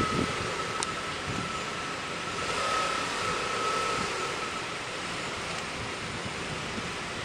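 Renault Duster 4x4 crawling slowly up a steep dirt mound, its engine running steadily under load, with a faint steady whine that swells briefly about three seconds in.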